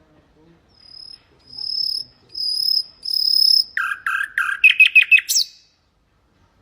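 Common nightingale singing a phrase: four long, high whistled notes that grow louder, then a few lower rasping notes, a fast trill and a sharp upward-sweeping whistle near the end.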